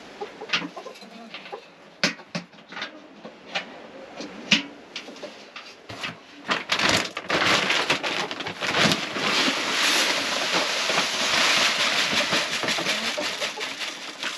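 Chickens clucking and murmuring softly in their coop, with scattered small knocks and scuffs. From about seven seconds in, a loud steady rustling noise takes over.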